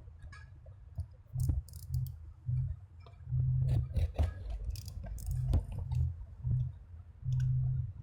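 Irregular clicks and light taps, as of small parts being handled, over a low hum that swells and drops every second or so.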